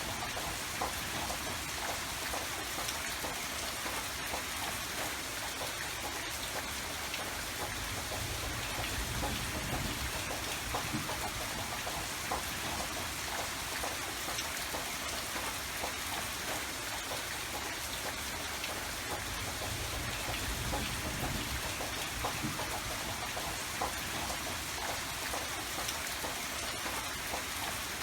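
Steady rain falling, a dense patter of drops on surfaces without a break.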